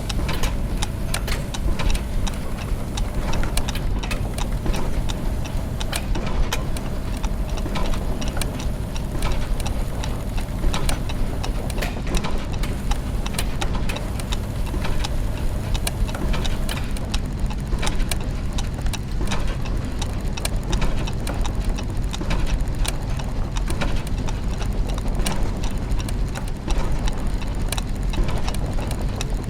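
Clockwork gears and mechanisms running: many overlapping ticks and clicks over a steady low mechanical rumble.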